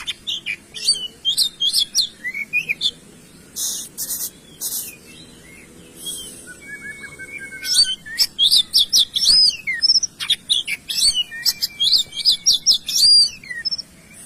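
Songbird singing: a varied run of quick chirps and whistles, sparse at first and becoming a dense, rapid string of notes in the second half.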